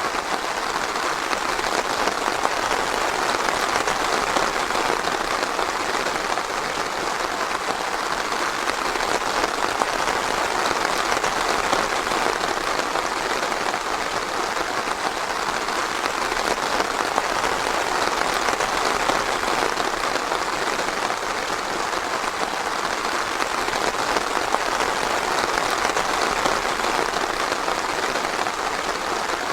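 Steady light rain falling on a forest, a dense even patter.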